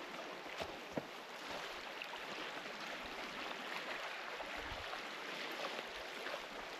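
Steady, even rushing noise of forest ambience, with a few soft clicks in the first second.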